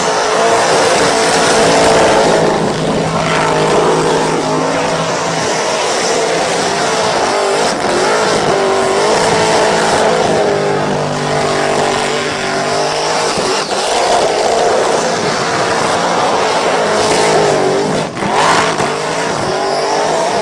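Drag car engine held at high revs during a burnout, its pitch wavering up and down, over the steady hiss and squeal of spinning tyres; the sound briefly dips near the end.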